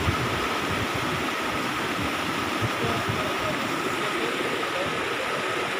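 Running water rushing steadily in a trout farm's ponds and channels, with a thin steady whine above it.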